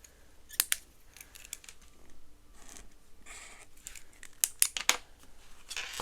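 Paper bills and plastic binder pockets being handled and rustled, with sharp clicks: a pair about half a second in and several more around four to five seconds.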